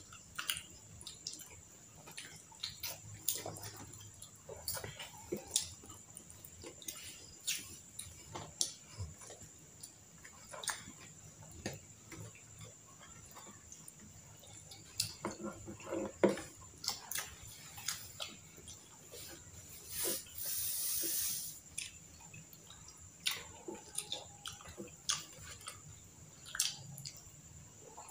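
Mukbang eating sounds: wet chewing and lip-smacking of fried fish balls and kikiam, with irregular sharp clicks and taps of metal forks. About twenty seconds in there is a hissing noise lasting a second or two.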